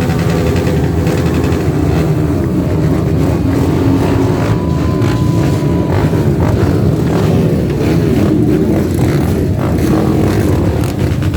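Many trail dirt bikes running together, engines idling and revving overlapping as a group waits and sets off.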